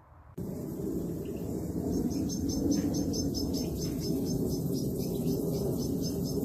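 Small caged birds chirping in a fast, even run of short high notes, about five a second, over a steady low rumble that starts suddenly just after the beginning and is the loudest part.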